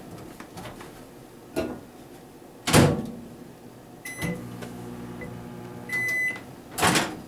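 Microwave oven in use: its door shuts with a knock and a short keypad beep starts it. It hums steadily for about two seconds, gives a longer beep when it finishes, and its door opens with another knock.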